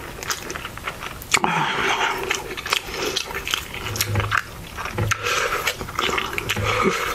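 Close-miked wet chewing and mouth sounds of someone eating a loaded burrito, with many small clicks and smacks. There is a sharper bite sound about a second and a half in, and a few short low hums of enjoyment in the second half.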